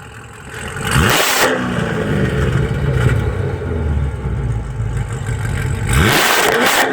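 A car engine revved twice on request: a sharp blip of the throttle about a second in that falls back to a steady idle, then a second rev near the end.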